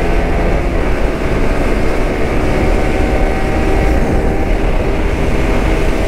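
Yamaha R15 V3's 155 cc single-cylinder engine pulling hard under full acceleration, heard from the rider's seat under heavy wind noise.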